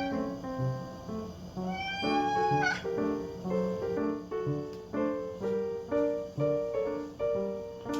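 A ragdoll cat gives one drawn-out meow about two seconds in, lasting about a second and sweeping up in pitch at its end, over light piano background music.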